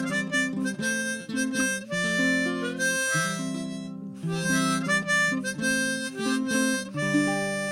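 Harmonica playing a melodic instrumental break in short phrases, over a baritone ukulele accompaniment.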